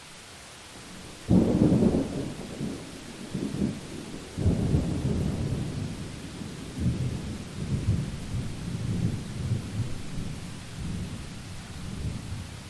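A thunderclap that breaks in suddenly about a second in and rolls on as low rumbling in several surges, dying away near the end, over steady rain.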